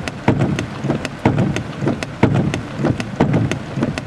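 Heavy thunderstorm rain pelting a car's windshield and roof: sharp drop taps several times a second over a low rumble that swells about once a second.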